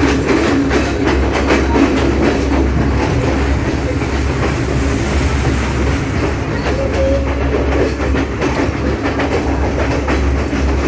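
Passenger train running at speed, heard from inside a carriage: wheels clattering over the rails with rapid clicks and rattles over a steady low hum.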